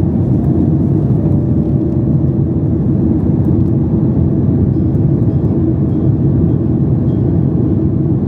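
Steady, loud cabin noise of a Boeing 737 MAX 8, its CFM LEAP-1B engines running, heard from inside the passenger cabin: a deep, even rumble with a faint hum.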